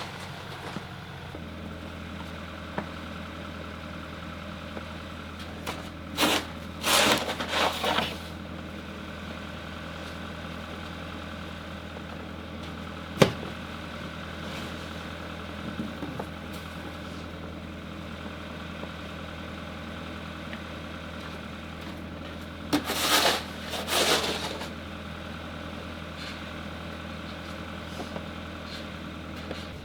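Car engine idling steadily. There are two short bursts of noise, about six seconds in and again around twenty-three seconds, and a single sharp click near the middle.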